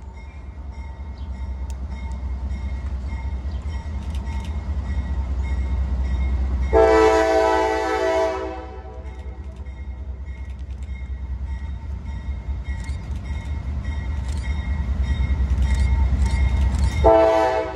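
Approaching diesel locomotive with a low engine rumble that grows louder as it nears. It sounds its air horn in one loud blast of about a second and a half about seven seconds in, and starts a second blast just before the end.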